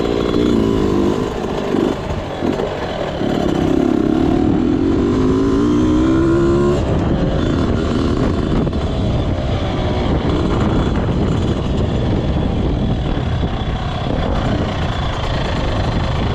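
Motocross bike engine revving, its pitch climbing for a few seconds and breaking off abruptly about seven seconds in. A rougher, steady engine and rushing noise follows.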